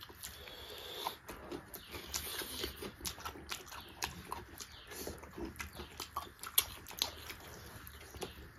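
People chewing a pork and mushroom curry with rice eaten by hand, with irregular wet mouth smacks and clicks; one sharper smack comes about six and a half seconds in.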